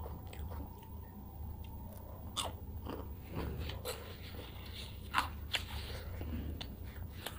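A person chewing and crunching food close to the microphone, with several sharp, crisp crunches scattered among softer wet chewing.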